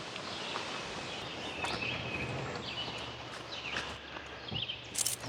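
Small birds chirping with short, high calls over a steady outdoor background, with a few light clicks.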